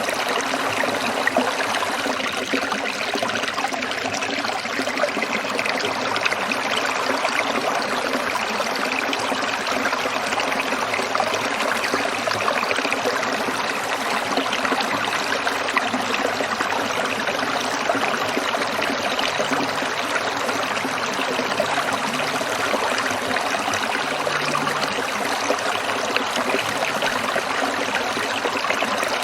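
Stream water trickling and splashing over rocks, a steady, even rush with no change.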